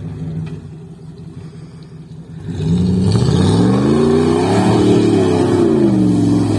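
An off-road vehicle's engine running low, then revved hard about two and a half seconds in, its pitch rising to a peak and falling back while it stays loud.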